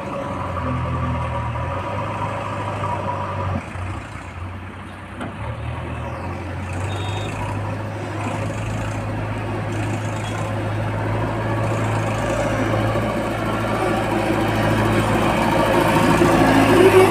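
Diesel engine of a JCB 3DX Extra backhoe loader running at work, dipping briefly a few seconds in and then growing steadily louder toward the end.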